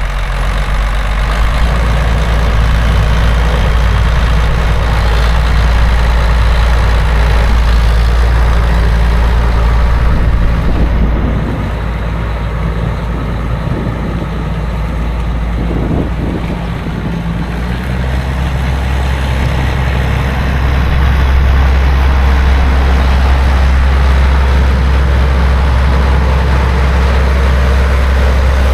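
2006 John Deere 9320 articulated four-wheel-drive tractor's six-cylinder diesel engine running steadily. About eleven seconds in it drops to a lower, quieter note, and about eighteen seconds in it picks up to a higher, louder steady speed.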